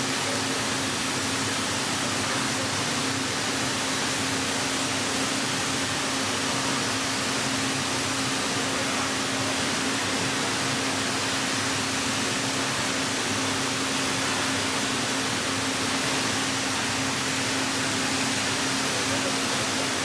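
Steady machine hum with one constant low tone over an even hiss.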